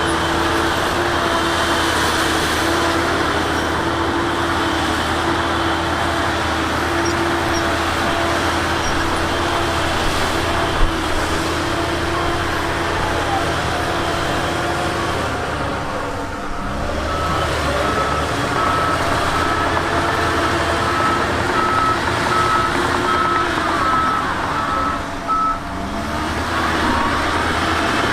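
Heavy diesel earthmoving machinery running steadily. Past the middle, a reversing alarm sounds a run of regular beeps for several seconds, as a machine backs up.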